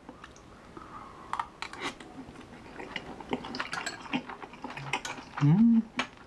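Close-up chewing of a mouthful of rice with squid and pork belly: wet, clicky mouth noises. A short hummed "mm" comes about five and a half seconds in.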